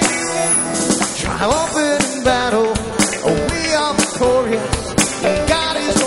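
Live church praise music: singing over a band with drum kit and guitar, the drums hitting at a steady beat of about two a second.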